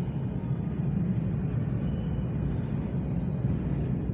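Steady low rumble of a train running, with no breaks or sudden events.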